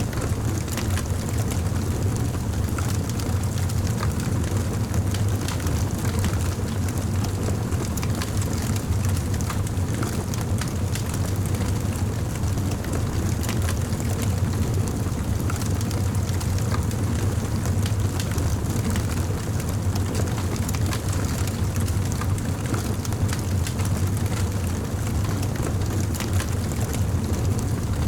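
Campfire burning: a steady low rumble with frequent small crackles and pops of burning wood.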